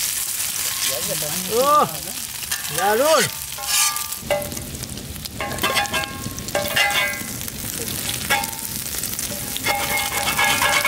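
Eggs sizzling in hot oil on a large flat griddle, with a metal spatula scraping and clinking against the pan from about four seconds in. Two short swooping cries, the loudest sounds here, come about one and a half and three seconds in.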